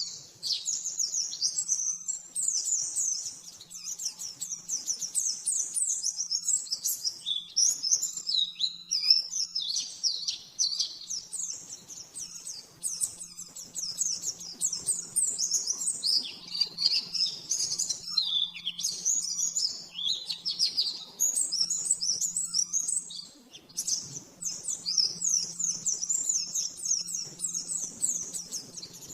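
White-eye (pleci) singing a fast, nearly unbroken run of high chirps and trills, the rapid 'nembak' style of song used as a masteran tutor recording, with a faint steady low hum underneath.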